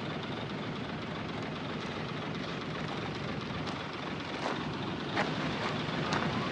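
Heavy diesel earthmoving machinery running steadily, with a few short, sharp sounds over it in the second half.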